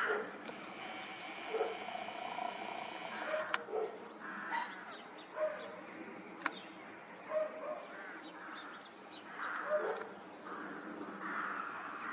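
A dog barking in short, separate barks every second or two over a steady background hiss.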